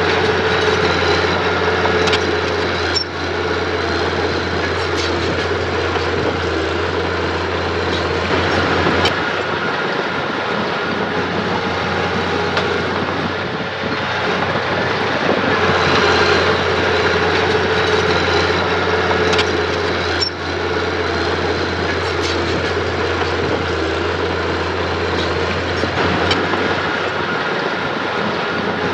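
Engine of heavy earthmoving machinery running continuously under load, with a few sharp knocks scattered through it.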